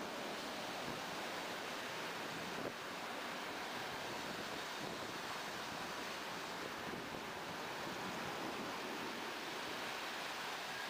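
Steady rushing noise of a train in motion, heard from on board, with wind on the microphone. One short knock about three seconds in.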